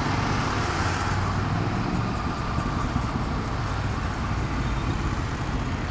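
Royal Enfield Himalayan 450 motorcycle's single-cylinder engine running steadily while riding slowly in city traffic, with wind and road noise.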